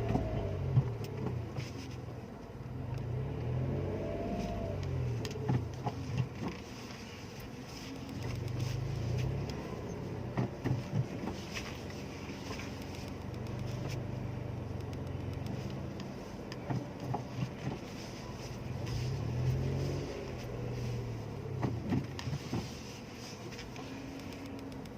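Mitsubishi Mirage hatchback's engine running at low revs while the car reverses slowly, swelling and easing several times as the throttle and clutch are worked, with a few small clicks and knocks.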